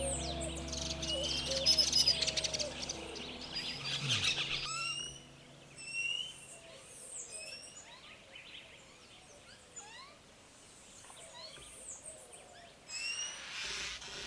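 Several wild birds chirping and calling in short rising notes. The first few seconds are dense with calls over a low steady hum, then after an abrupt change about four and a half seconds in the chirps become sparser and quieter.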